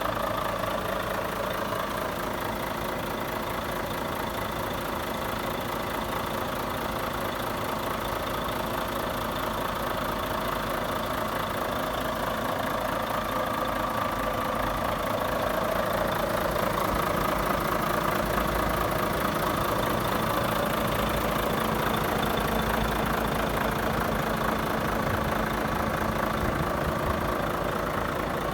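Volvo FH500 truck's 13-litre straight-six diesel engine idling steadily, a little louder in the second half.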